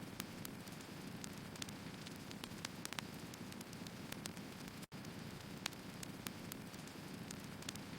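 Firewood burning in a fire, with a steady low rushing bed and irregular sharp crackles and pops from the wood. The sound cuts out for an instant about five seconds in.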